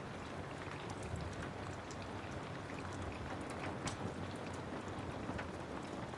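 Steady rain with scattered sharp crackles and pops of a wood fire burning in a fireplace.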